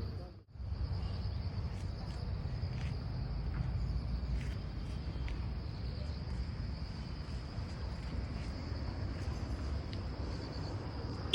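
Steady high-pitched insect chirring, like crickets, over a continuous low rumble, with a brief drop-out about half a second in.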